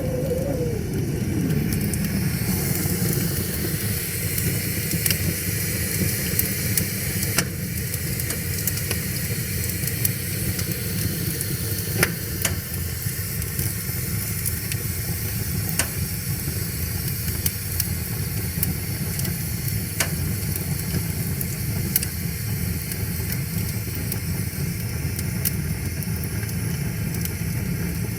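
Wood fire crackling, with sharp pops every few seconds, over a steady low rush of river water. A wavering tone slides down and fades in the first second or two.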